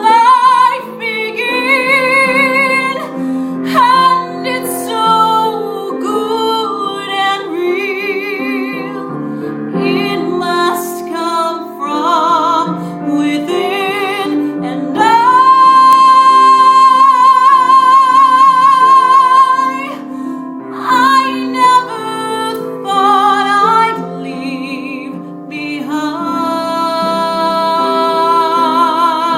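A woman singing a slow musical-theatre ballad with vibrato over a piano accompaniment, holding one long loud note in the middle.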